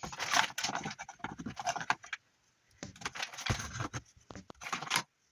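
Plastic printed screen case clicking and scraping as a magnetically mounted touchscreen is shifted and repositioned on its mount, with irregular clicks in two bursts separated by a short pause about two seconds in.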